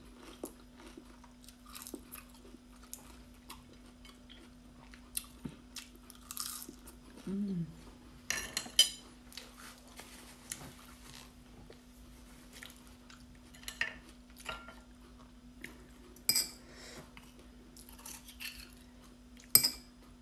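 Close-up eating of raw oysters topped with crunchy fried onion: scattered chewing and crunching, with occasional clinks of a spoon and oyster shells against the plate. There is a brief hummed "mm" about seven seconds in, and a steady low hum underneath.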